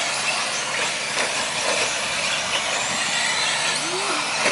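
Radio-controlled short course trucks racing: a steady hiss of the cars' motors and tyres on the track, with faint high whines rising and falling as the cars accelerate and brake.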